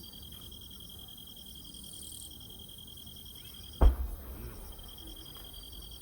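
A single firework shell bursting with a sharp, loud bang about two-thirds of the way in, followed by a low rumble that trails off. Insects keep up a steady, high, pulsing trill throughout.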